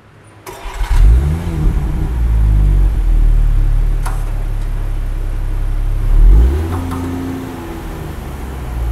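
Range Rover P400's 3.0-litre inline-six starting up about half a second in, flaring up in revs and settling to idle. A second brief rev comes about six seconds in, heard at the exhaust.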